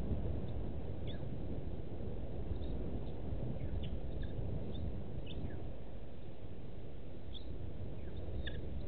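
Scattered short, high bird chirps, several sliding down in pitch, a few every second or two over a steady low background rumble.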